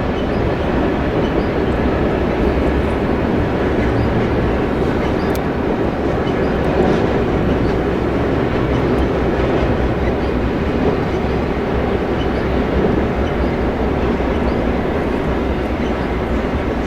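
A train rolling by, with a steady rumble of wheels on rail.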